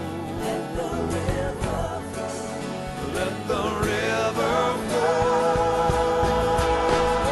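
Christian worship song: a voice singing a melody over instrumental accompaniment, holding one long note from about five seconds in.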